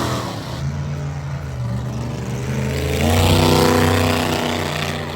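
Monster truck engine running, revving up louder and higher about three seconds in, then easing back.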